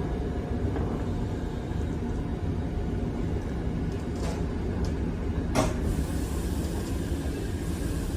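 Electric commuter train running on its track, a steady low rumble with a few short clicks, the sharpest about five and a half seconds in.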